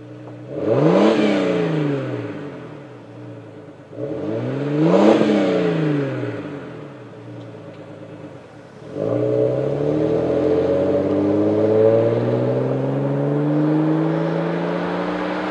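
A 1999–2004 Jeep Grand Cherokee's 4.0-litre inline-six, breathing through a Flowmaster American Thunder cat-back exhaust with a Super 50 series muffler, gives a mild, subtle performance tone. It is revved twice, each rev rising and falling, then pulls steadily with the pitch climbing slowly as it accelerates.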